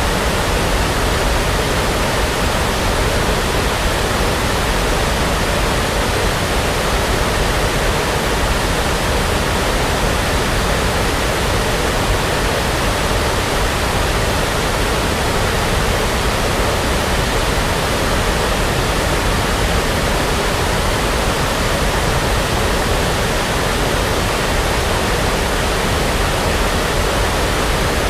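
Steady generated brown noise: an even, unbroken rushing hiss that does not change.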